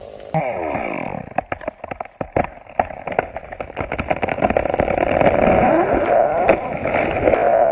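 Chainsaw engine running with its pitch wavering, with a quick run of sharp cracks in the first few seconds.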